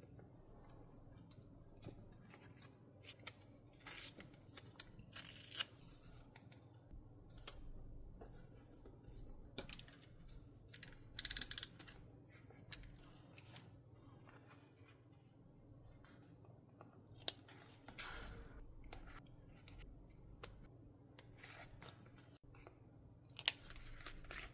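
Scissors cutting paper in scattered snips and short strokes, with a few louder tearing sounds, the loudest about eleven seconds in.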